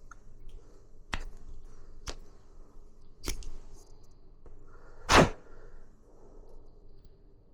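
Handling noise from parts and tools during gas water heater servicing: three sharp clicks or knocks spaced about a second apart, then one much louder sharp whack about five seconds in.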